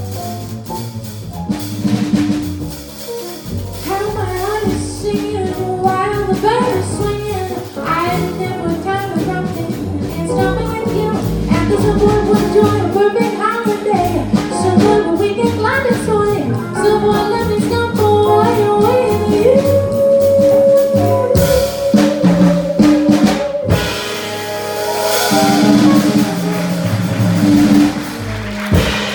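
A small jazz band playing live: drum kit, bass and piano under a singer and horns, the melody line weaving quickly, then a long held note about two-thirds through before the closing bars.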